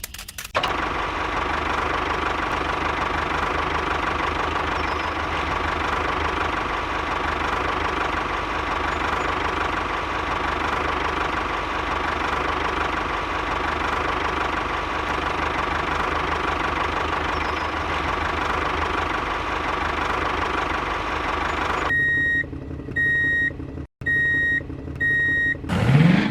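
Engine running steadily, the sound of the miniature tractor. About 22 seconds in it stops and a run of short, evenly spaced electronic beeps follows.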